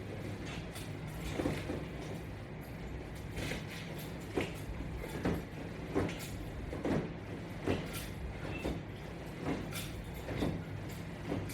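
Resistance straps on a door-mounted exercise bar creaking and rustling in a steady rhythm, about once a second, as each sit-up pulls and releases them, over a low steady hum.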